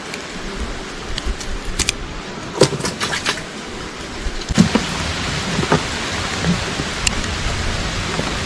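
Steady rain falling on the river and the boat, getting louder about halfway in, with scattered small clicks and knocks from handling in the boat.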